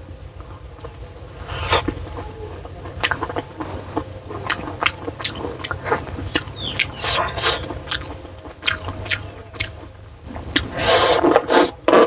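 Close-miked eating: chewing with many short, sharp wet clicks and smacks, and a louder, longer noisy stretch near the end.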